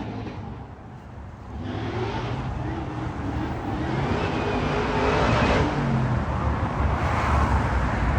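A vehicle's engine approaching, growing steadily louder from about a second and a half in.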